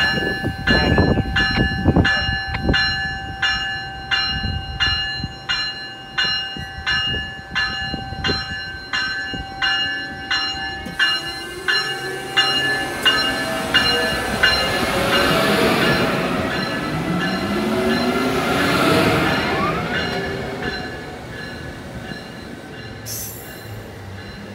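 Amtrak ACS-64 electric locomotive's bell ringing steadily, a little under twice a second, while the train moves slowly past, with low clanks from the wheels early on. The bell stops about eleven seconds in. The passenger cars' wheels then roll by with a squeal that wavers up and down in pitch, fading near the end.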